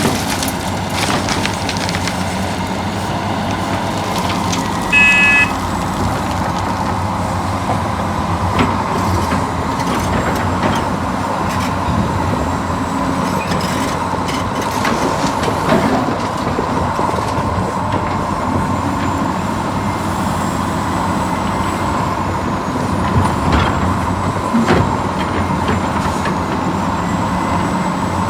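Radio-controlled scale excavator and dump truck working. Their motors make a steady low hum and a whine, with scattered clicks and knocks. A short electronic beep sounds about five seconds in.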